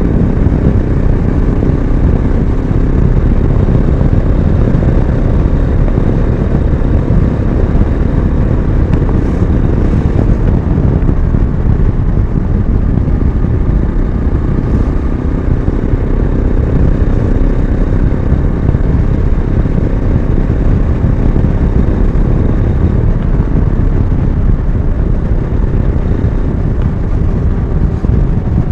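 Yezdi Adventure motorcycle's single-cylinder engine running steadily under way, with a heavy, continuous low rumble of riding noise.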